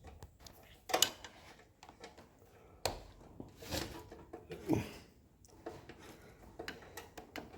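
Hand tools on a Honda CT110's front sprocket bolts as their tightness is checked: a few scattered metallic clicks and knocks.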